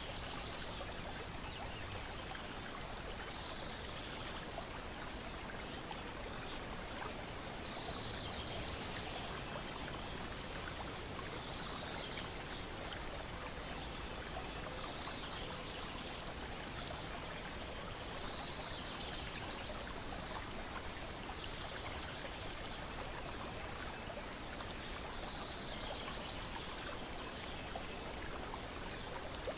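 Small lake waves lapping and splashing steadily against a shore and a wooden deck, with soft high chirps returning every few seconds.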